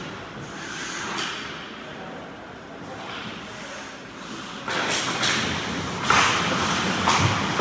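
Ice hockey play echoing in a rink: skates scraping the ice with sharp stick and puck knocks, quieter at first and then busier and louder with several sharp hits in the second half.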